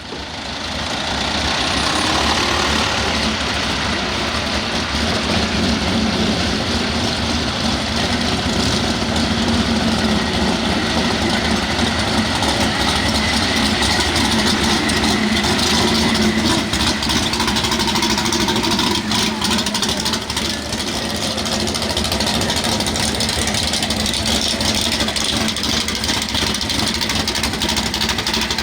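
Small-block V8 engine of a super stock 4x4 pulling truck running loud and steady, its pitch held for the whole stretch.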